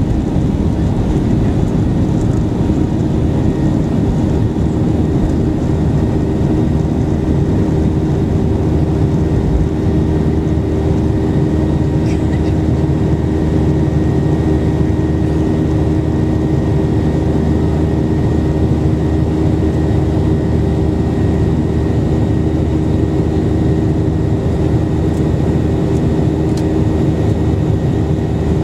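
Boeing 737-800 CFM56-7B jet engines running steadily during takeoff: a loud, even rumble with a steady hum and a faint high whine.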